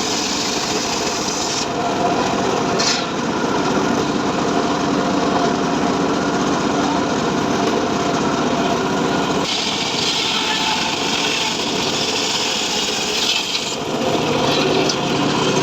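Homemade engine-driven srekel saw cutting mahogany wood, running steadily under load; its tone shifts about two seconds in and again past the halfway point as the cut loads and eases.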